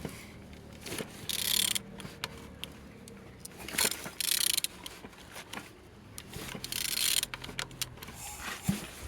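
Car engine turned over by hand, turning freely: clicks and knocks from the engine and tool, with a short hissing burst about every two and a half seconds.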